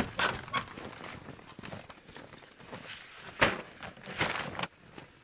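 Gear being handled during packing: irregular rustles and light knocks, with one sharper knock about three and a half seconds in.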